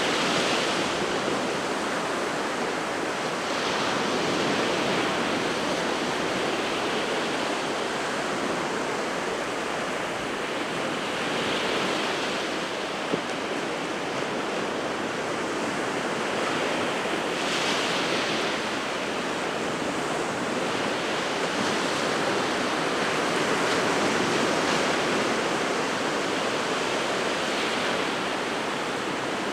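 Sea surf: waves breaking and washing up the shore in a continuous rush, swelling into a brighter hiss several times as individual waves break.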